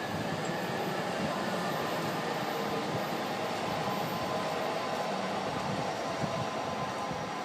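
Electric commuter trains running through a multi-track railway corridor: a steady rumble of wheels on rail with a faint, steady whine on top.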